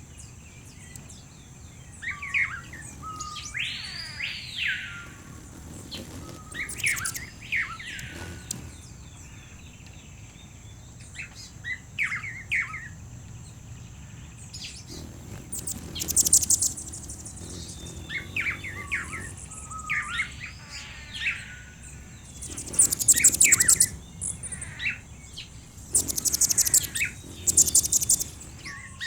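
Background ambience of wild birds chirping and calling: repeated arching whistled notes and short chirp phrases, with loud rapid buzzy trills in the second half, over a steady high thin tone.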